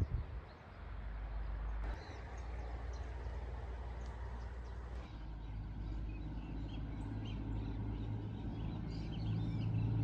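Birds chirping over a steady, low, rumbling outdoor noise that grows a little louder near the end.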